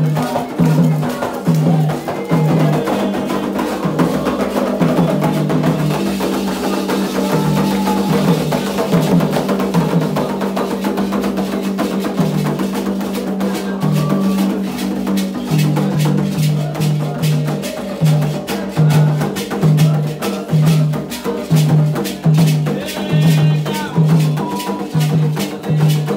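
Candomblé ritual music: hand drums beating a steady driving rhythm, with a sharp percussion part on top and voices singing faintly over it.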